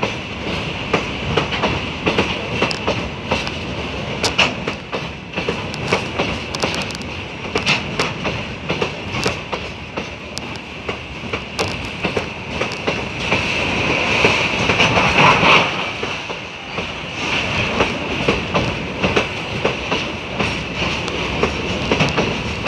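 Loaded freight wagons rolling past, their wheels clattering over rail joints in a run of sharp clicks. Under the clicks is a steady high metallic squeal from the running gear, loudest a little past the middle.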